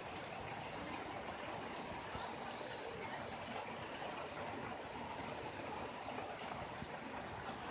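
Steady rain falling, with water running and trickling.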